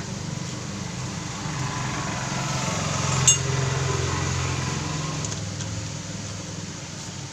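A single sharp metallic clink with a brief ring about three seconds in, as steel gearbox pinions are fitted into the motorcycle engine's crankcase. Under it a low hum runs throughout, swelling for a few seconds and then easing off.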